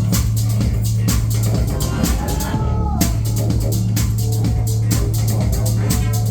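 Live band music at full volume: a steady drum-kit beat over a heavy, sustained bass and synth. The drums drop out briefly a little before 3 s while a gliding tone arches over them, then the beat comes back.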